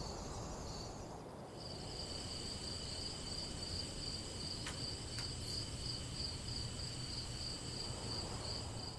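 Insects trilling steadily in a high, fast-pulsing drone, with more of them joining about a second and a half in, over a low steady hiss.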